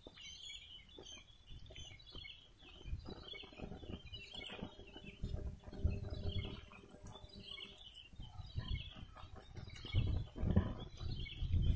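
Small birds chirping and calling over and over, with a thin, steady high-pitched whine behind them and some low rumbling.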